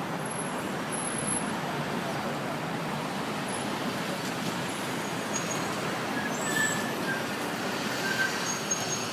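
Steady city traffic noise, an even rumble and hiss of passing cars, trucks and buses, with a few brief high-pitched squeaks late on.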